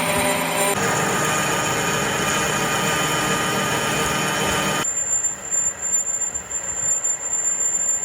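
Workshop machinery running with a loud, steady mechanical noise. The sound changes abruptly about a second in, and again about five seconds in, where a high steady whine appears and the level starts to rise and fall unevenly.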